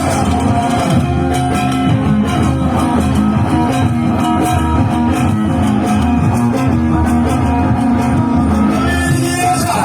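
Amplified live band music: an instrumental passage led by plucked guitar over bass, loud and unbroken.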